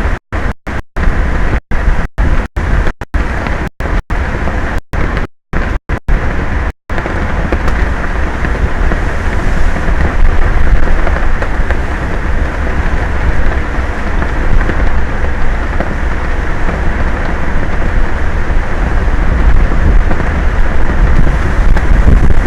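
Wind on an exposed outdoor microphone over open ocean: a loud, steady rush with a heavy low rumble. The audio drops out repeatedly for short moments during the first several seconds, then runs on without a break.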